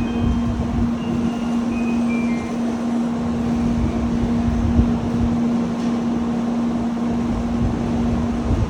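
Shinkansen train running, a steady rumbling noise with a constant low hum that cuts off near the end as the sound drops away.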